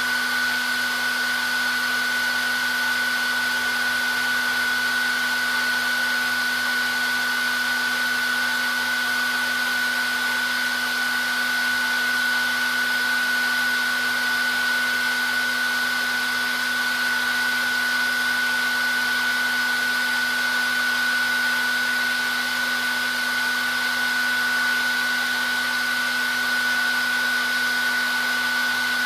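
Hair dryer running steadily on one setting: an even rush of blown air with a constant high whine from the fan motor and a lower hum beneath it.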